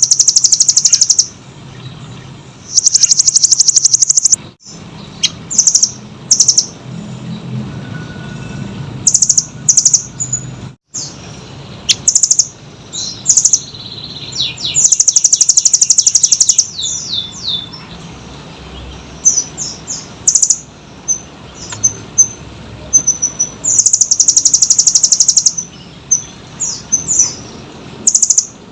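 Blue nuthatch (rambatan doraemon) singing: loud, very rapid high trills, each about a second or so long, repeated several times, with shorter chirps and whistled notes between them.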